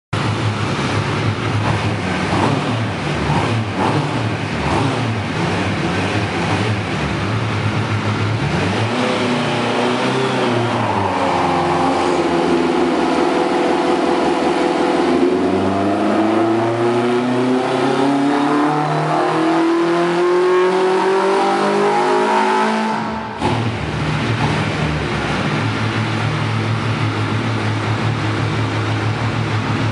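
Suzuki Hayabusa inline-four engine in a kit car on a hub dyno. It idles for the first several seconds and blips up around nine seconds. From about sixteen seconds it climbs steadily in pitch under dyno load toward 6500 rpm, then cuts off suddenly at about twenty-three seconds as the throttle shuts and falls back to idle.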